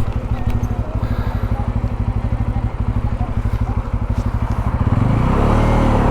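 Kawasaki Pulsar NS250 motorcycle engine running at low revs, a fast even beat of firing pulses. About five seconds in, it turns louder and smoother as the revs change.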